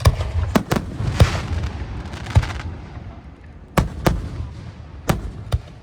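Aerial fireworks shells bursting overhead: about nine sharp bangs in quick, irregular succession, each with a ringing tail, and a dense hiss under the bangs in the first half.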